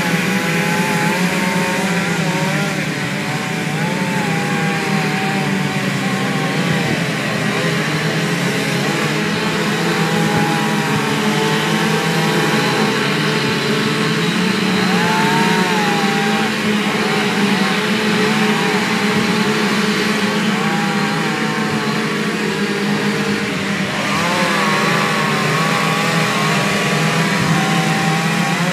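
Two-stroke chainsaw running near full throttle while carving wood, its pitch wavering up and down as the chain bites and eases.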